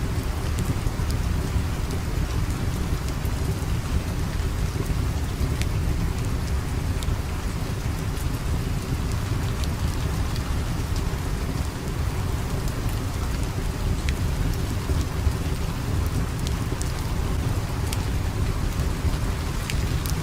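Steady rain with a low, constant rumble beneath it, scattered with sharp little ticks throughout.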